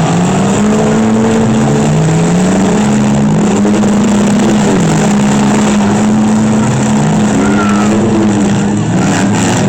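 Several demolition-derby van, truck and SUV engines revving at once, their pitches rising, falling and holding over one another.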